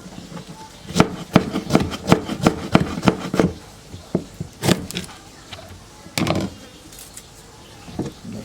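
Knife chopping food on a cutting board. A quick run of about eight chops comes in the first few seconds, then a single chop, then a short cluster of chops later on.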